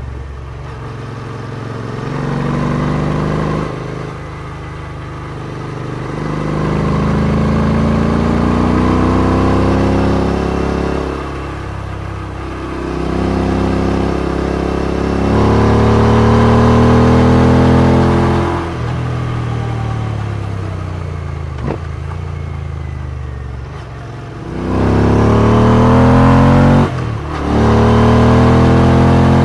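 Royal Enfield Interceptor 650's parallel-twin engine through non-stock exhausts, heard on board while riding. It revs up under throttle and eases off several times, the note rising as the bike pulls and falling back when the throttle closes, with a brief sharp drop in the note near the end.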